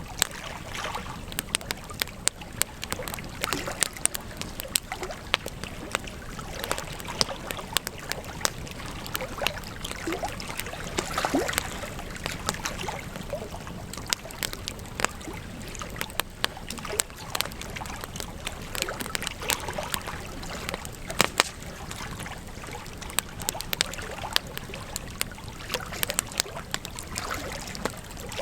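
Wood campfire crackling, with frequent sharp pops over a steady hiss of flames; the hiss swells briefly about eleven seconds in.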